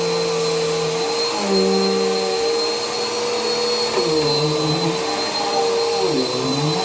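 Vacuum cleaner running steadily with a motor whine. In the second half its pitch dips and recovers about every two seconds.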